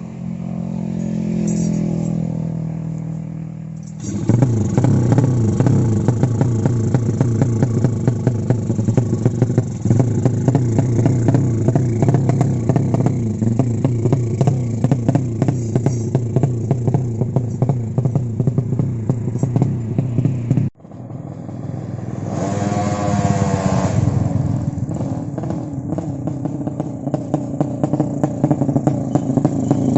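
A tuned racing motorcycle engine runs loud and rough with rapid firing pulses. It starts low and steady, then jumps up sharply about four seconds in. It cuts out abruptly about 21 seconds in and comes back running a couple of seconds later.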